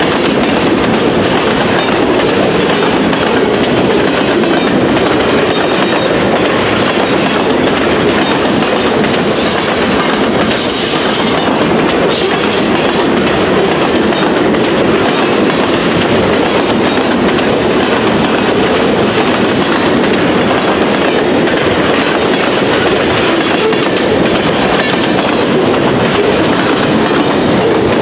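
Freight cars of a long mixed train (boxcars, tank cars, centerbeam flats) rolling past close by: a loud, steady rush of steel wheels on rail.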